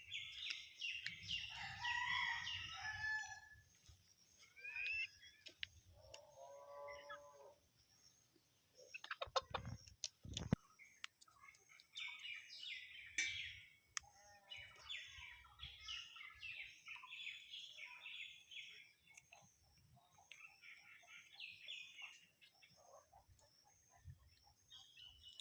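Birds chirping in repeated quick runs of high notes. There is one lower, longer call about six seconds in, and a few sharp knocks around ten seconds in.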